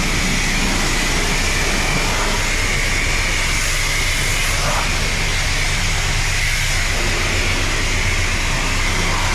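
The self-serve car wash's high-pressure water system runs steadily on its timer: a constant hiss over a low hum, with a steady whine.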